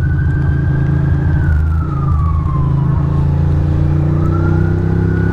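An emergency-vehicle siren wailing: it holds a high pitch, slides slowly down over a couple of seconds, then climbs again near the end. Under it, the steady, louder running of the Ducati Monster's L-twin engine.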